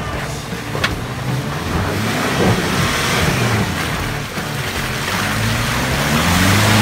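A 4x4's engine revving up and down in pitch as it drives, with a rushing noise building from about two seconds in.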